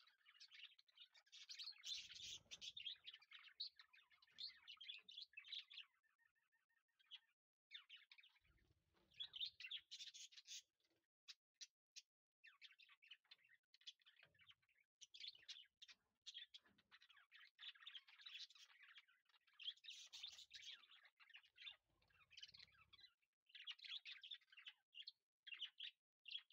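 Faint birds chirping, with many short calls in quick succession and a few brief lulls.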